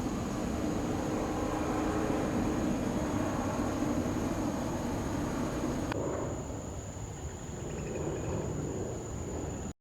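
Airliner jet engine noise, steady and spread across all pitches, with a faint hum of held tones. It changes abruptly about six seconds in and cuts off suddenly just before the end.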